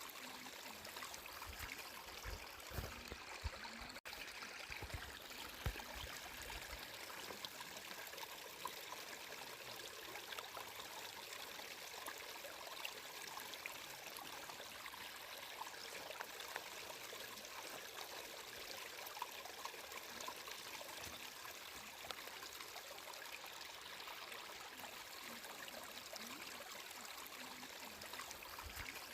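Flowing water: a stream trickling steadily, with a few soft low thumps in the first few seconds.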